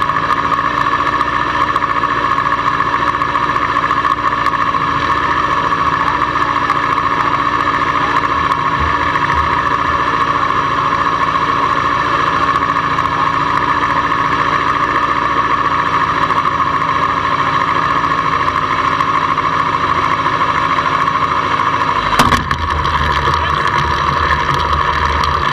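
Racing motorcycle engine idling steadily, heard through the camera mounted on the bike. A knock comes about 22 seconds in, and after it the deep part of the engine sound grows stronger.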